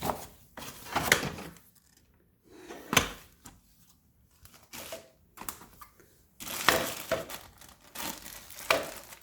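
Irregular crinkling and handling noises, with a few sharp clicks, as a cordless vacuum cleaner and its packaging are handled.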